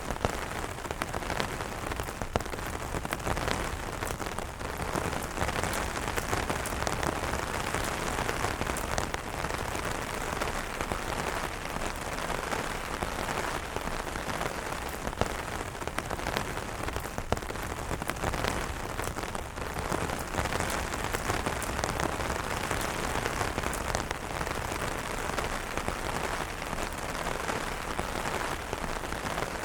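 Steady rain falling on umbrellas: an even hiss with many sharp ticks of single drops striking the fabric.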